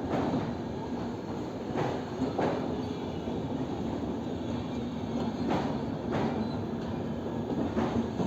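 Passenger train running on the rails with a steady rumble. The wheels click over the rail joints in pairs every few seconds.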